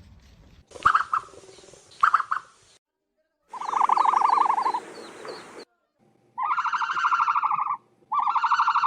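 Ostrich calls in a row of separate short clips: two brief calls about a second apart, then a longer rapidly pulsed call, then two pitched, rapidly pulsed calls of about a second and a half each near the end.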